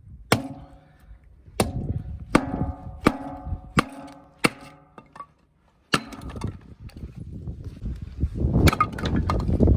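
A series of sharp knocks, each ringing briefly with a pitched tone, about every 0.7 seconds, then one more a little later. Near the end, strong wind begins rushing loudly against the microphone.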